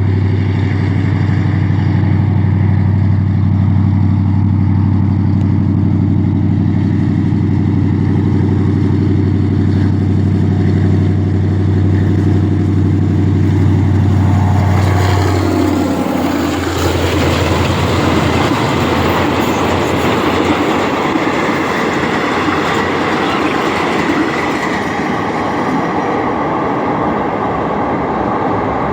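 Diesel train running: a steady low engine drone for about fifteen seconds, whose pitch then drops, after which a rushing, rolling noise of the carriages on the rails takes over.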